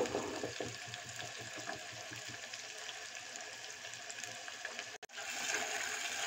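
Shallots and green chillies sizzling in hot oil in a clay pot. The sound cuts out briefly about five seconds in and comes back as a louder sizzle of ground masala paste frying in the oil.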